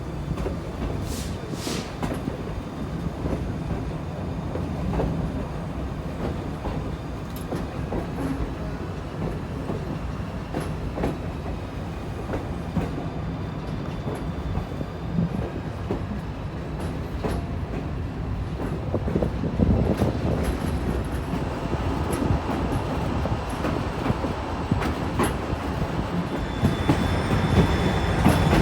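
White Pass & Yukon Route passenger train rolling along the track, heard from aboard a car: a steady rumble with irregular clicks of the wheels over the rails. It grows louder in the last third, and a faint high wheel squeal comes in near the end.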